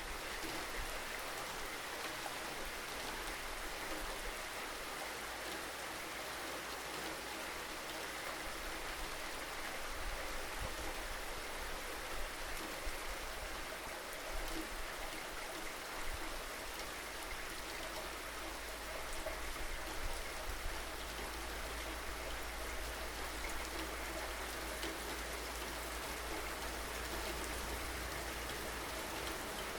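Steady rainfall, an even hiss of drops, with a constant low rumble underneath.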